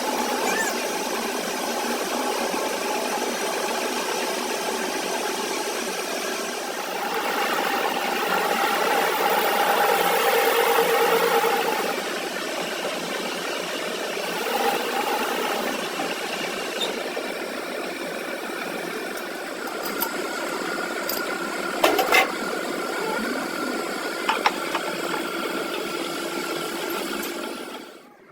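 Machinery running steadily with a rattle, louder for a few seconds early on, with a few sharp knocks later.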